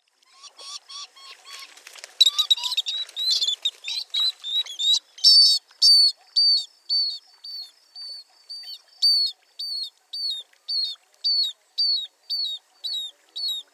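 Rainforest birds calling: at first a jumble of chirps and twitters from several birds. From about five seconds in, one bird repeats a short, high, falling note a bit over twice a second.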